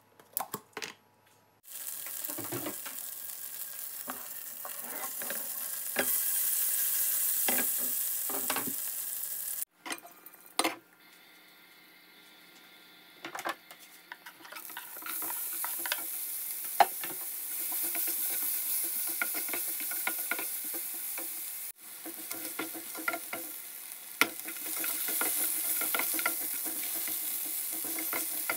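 Hot oil and butter sizzling in a nonstick frying pan as chillies, then onion and mixed vegetables, fry in it, with the spatula clicking and scraping against the pan as it stirs. The sizzle cuts off abruptly about ten seconds in, gives way to a quieter stretch with a few knocks, and returns louder.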